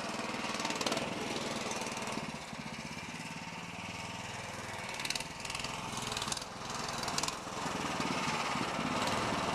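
Mini bike's 16-horsepower small engine running, its speed rising and falling a few times as the throttle changes.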